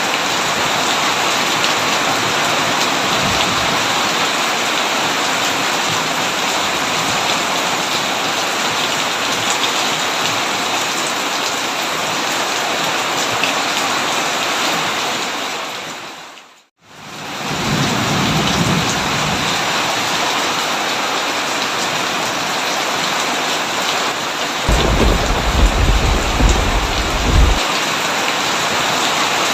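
Heavy rain drumming steadily on a tin roof. Just past halfway the rain fades out and back in within about a second, and a few seconds before the end a low rumble of thunder swells and dies away.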